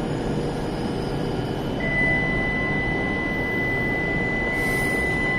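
Rumble of an E7/W7-series Shinkansen train pulling out of the station. A steady high-pitched electronic tone starts about two seconds in and holds.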